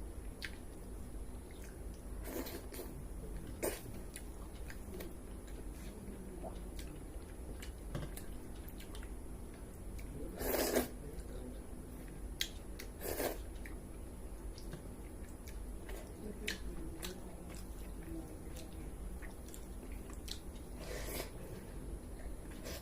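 A person chewing and crunching a meal of pakhala bhata (rice soaked in water) with chicken kasha and fried greens. Small mouth clicks are scattered throughout, with about five louder bites, the longest about halfway through.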